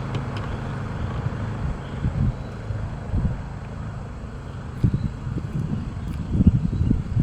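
Wind buffeting the microphone: a steady low rumble with irregular louder gusts.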